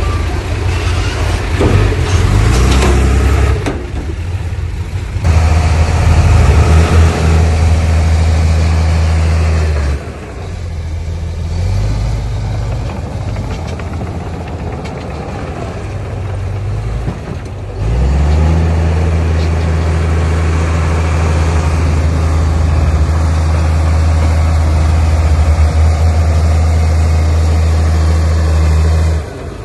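Heavy diesel engine of earthmoving machinery running with a steady low drone. It gets louder for a stretch about five seconds in, drops back about ten seconds in, then gets loud again from about eighteen seconds until near the end.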